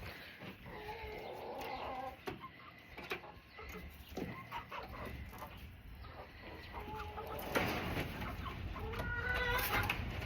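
Chickens clucking and calling, with short calls scattered throughout and a livelier stretch of calls near the end.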